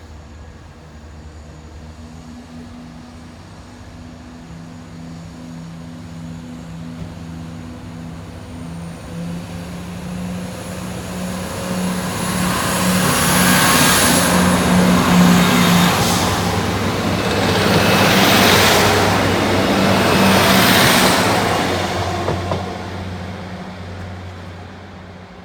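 Diesel train running through a level crossing: a steady engine hum that swells into a loud rush of wheel and engine noise in the middle, in three surges, then fades away.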